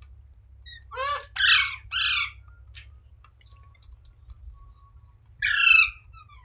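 Ringneck parrot squawking: three calls in quick succession about a second in, then one more call near the end.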